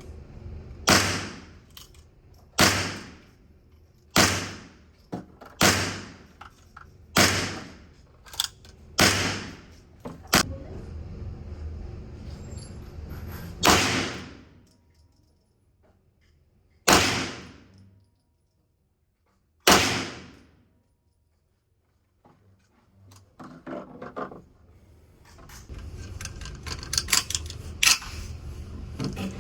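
A 9mm carbine firing single shots at an uneven pace, about ten in all, each followed by a fading echo. Near the end there is a run of lighter metallic clicking and rattling.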